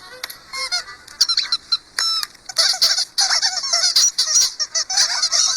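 A busy run of short squeaky chirps and honks mixed with quick clicks, getting thicker from about two and a half seconds in.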